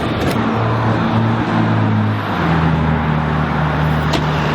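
Car running along the road: steady engine hum over tyre and road noise, the engine note dropping about two seconds in as with a gear change.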